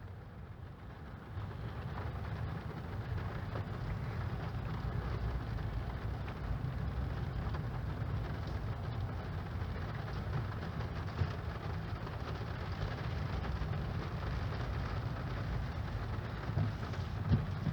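Rain falling on a car, over the low steady rumble of the car itself, heard from inside the cabin.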